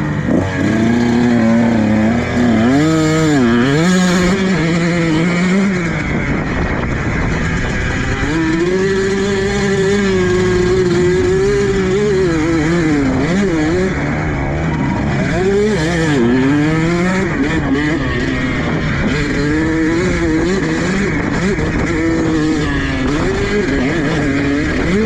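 Motocross dirt bike engine revving hard around a track, its pitch climbing and dropping again and again through acceleration and gear changes.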